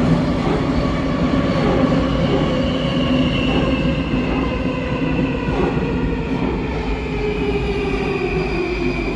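Warsaw Metro train running with a steady rumble and a squeal from the wheels on the rails. Its electric motors whine in several tones that slowly fall in pitch as the train slows.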